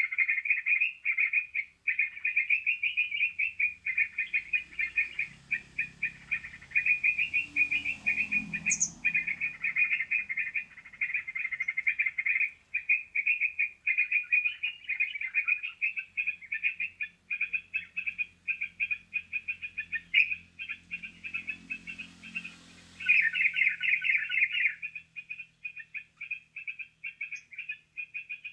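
Yellow-vented bulbul lure call played through a speaker: a continuous chatter of rapid chirps, thickest about 23 seconds in.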